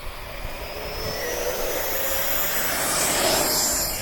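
E-flite F-16 70 mm electric ducted-fan jet at takeoff throttle: a rushing fan noise with a whine that rises in pitch, growing louder to a peak about three seconds in.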